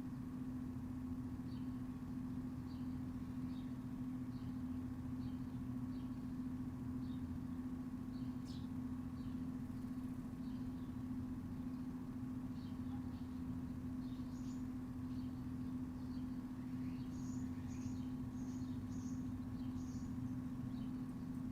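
A steady low hum runs throughout, with small birds chirping in short, scattered notes over it. About two-thirds of the way in comes a quick run of higher chirps.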